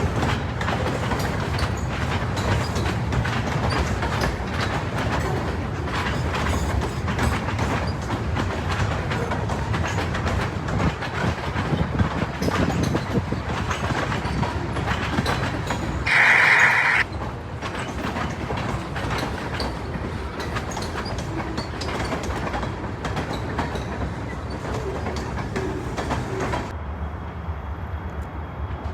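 Freight train cars rolling past, with steady rumbling and wheels clicking over the rail joints. About two-thirds of the way through there is a brief loud high-pitched sound lasting under a second.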